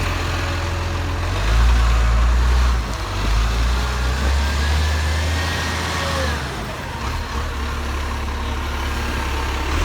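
Garbage truck engine running, getting louder for a second or so about a second and a half in and again from about three and a half to six and a half seconds in.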